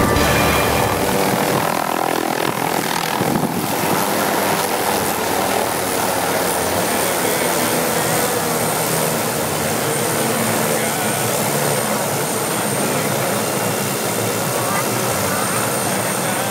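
Helicopter running close by: a loud, steady rush of engine and rotor noise.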